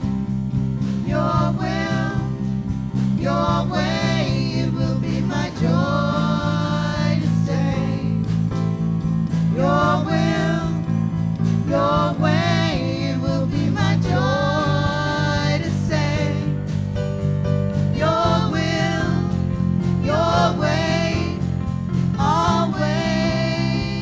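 Worship band music: sustained chords that change every few seconds, with a melody line gliding above them.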